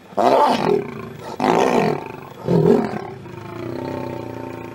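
Lions snarling and roaring in a confrontation: three loud, harsh snarls in the first three seconds, then a fainter, longer growl.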